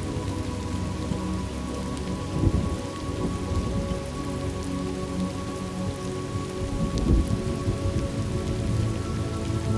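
Steady rain from a thunderstorm, with two low thunder rumbles swelling about two and a half seconds in and again near seven seconds, over faint held tones.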